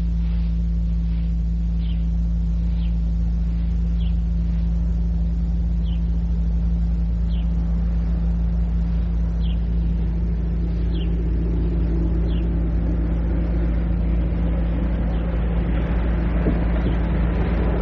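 Old cassette field recording under a steady low hum. A bird repeats a short falling chirp about once a second, then a passing vehicle's noise builds up and grows louder over the last few seconds.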